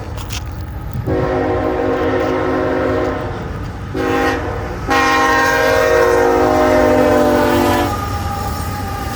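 Locomotive air horn sounding a chord, blowing a long blast, a short one and a final long blast: the end of the long-long-short-long grade-crossing warning. The passing train rumbles underneath throughout.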